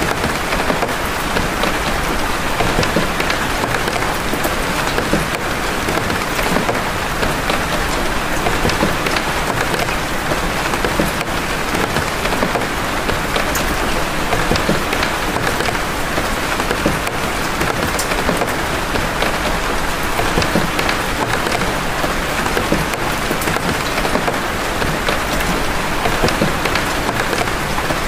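Steady rain of big drops falling, an even hiss with many sharp individual drop hits scattered through it.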